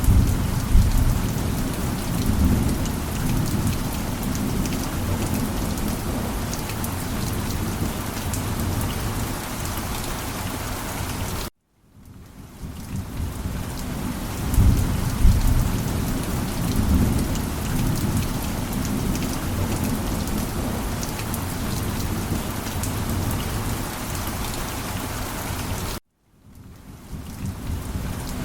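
Steady rain with low rolling thunder. Twice, about eleven seconds in and again near the end, the sound cuts out to silence and fades back in, and a thunder rumble swells soon after.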